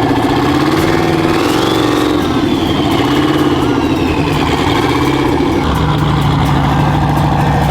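A vehicle engine running at idle, with a high whine that rises over the first couple of seconds and then slowly falls away.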